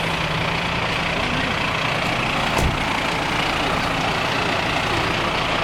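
Steady roadside vehicle noise: an engine idling with a low hum under traffic noise, and one short knock about two and a half seconds in.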